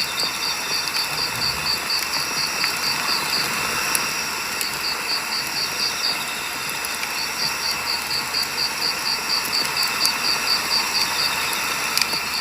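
Firewood burning in a campfire: a steady hiss broken by sharp crackles and pops. A high insect chirp repeats about three times a second, pausing a couple of times.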